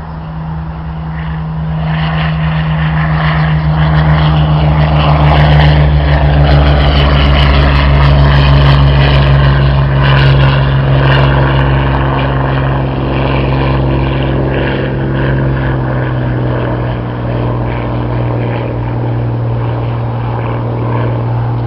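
Piston-engined propeller aircraft running close by, a loud steady drone that swells over the first few seconds, is loudest in the middle, then eases slightly with a small drop in pitch.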